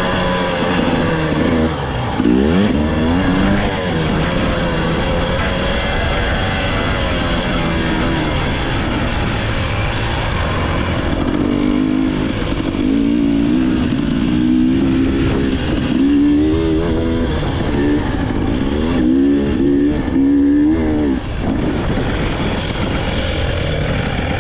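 Off-road motorcycle engine running hard, its pitch rising and falling again and again as the throttle opens and closes and the gears change, over a steady rush of noise.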